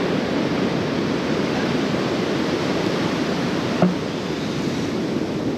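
Ocean surf washing steadily onto the beach, with one short knock a little before four seconds in.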